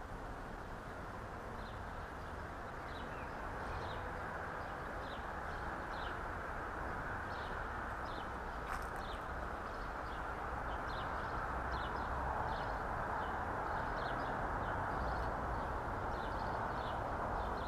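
A small bird chirping repeatedly, short high calls about once a second, over a steady rushing background noise, with one sharp click about halfway through.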